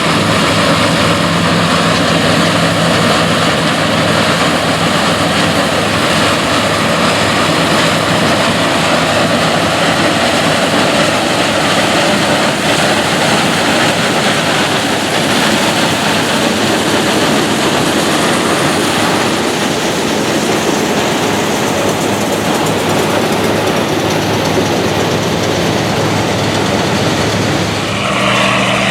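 Classic combine harvester running steadily in the field, its engine humming under the noise of the working machinery. Near the end the sound switches abruptly to a different engine note.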